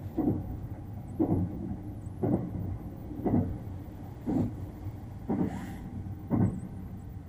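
Sunrise Izumo 285-series sleeper train running, heard inside a sleeping compartment: a steady low rumble with a regular knock about once a second from the wheels crossing rail joints.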